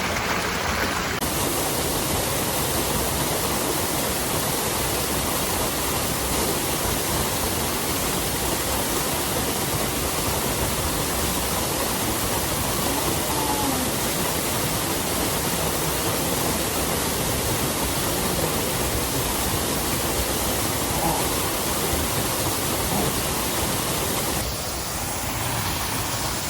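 Waterfall, a steady full rush of falling water. It brightens about a second in and eases slightly near the end.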